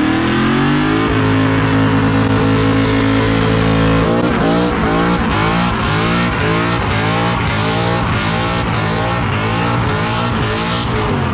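Dodge V8 muscle car revving hard during a burnout, with tyre squeal. The revs climb and hold high and steady for a few seconds, then rise and fall quickly, about one and a half times a second.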